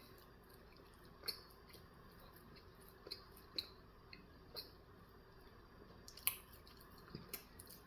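Faint close-up mouth sounds of a person chewing a breakfast bagel sandwich: scattered soft wet smacks and clicks, about seven in all.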